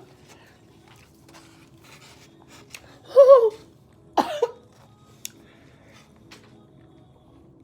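A person's pained vocal sounds while eating an extremely hot chicken tender: a short wavering moan about three seconds in, then a brief cough-like cry a second later, with faint clicks between.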